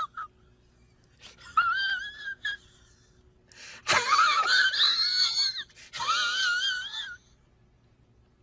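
A high-pitched, wavering, wheezy squeal sound effect: a few short squeaks, then two longer wavering squeals, the first starting sharply about four seconds in.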